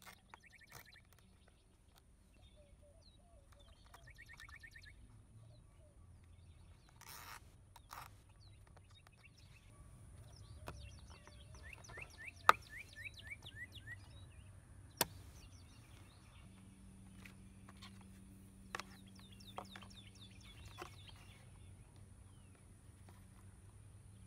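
Small birds chirping in repeated runs of quick notes, over scattered light clicks of plastic parts being handled. About halfway through comes a sharp snip, the loudest sound, as scissors cut a zip tie's tail, and a smaller click follows a few seconds later.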